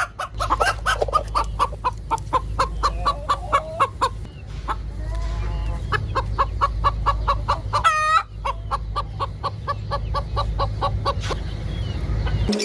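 Broody hen clucking in a steady run of short clucks, about four a second, over a low steady hum, with one short, higher call about eight seconds in.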